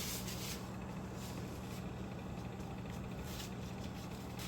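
Steady low hum with even hiss, broken by a few brief faint rustles.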